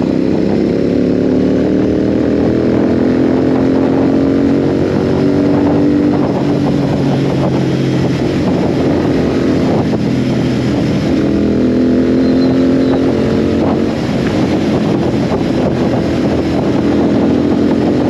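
Royal Enfield Continental GT 650 motorcycle engine running under hard acceleration, its pitch rising twice as it pulls through the revs, with a short dip about fourteen seconds in. A steady rush of wind and road noise runs beneath it.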